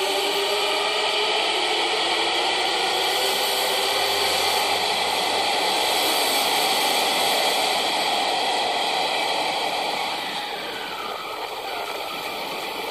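Electric commuter train pulling out along an underground station platform: a loud, steady rush of wheel and running noise, with the traction motors' whine rising in pitch as it gathers speed. The noise drops off about ten seconds in.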